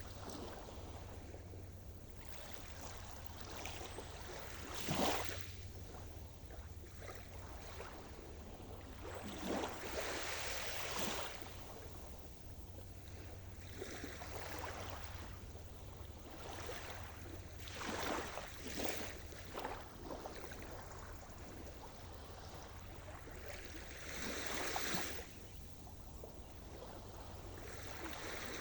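Sea surf: waves washing in over a steady low rumble, with louder breaks a few times, several seconds apart.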